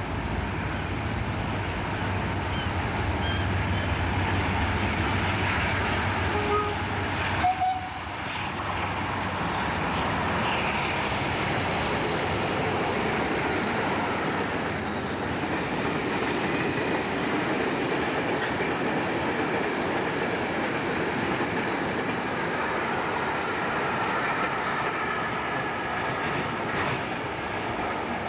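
British Rail diesel locomotive hauling a freight train of wagons through a station. First the locomotive's low engine hum as it comes in, then a steady rumble and clatter of the wagons rolling past, with a short break about seven seconds in.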